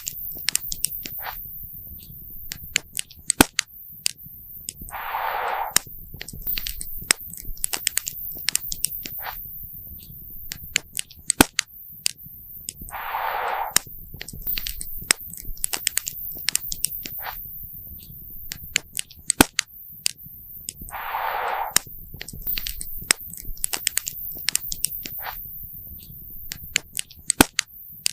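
Wood fire crackling, with many irregular sharp pops and snaps. About every eight seconds, a short burst of hiss lasting under a second comes in.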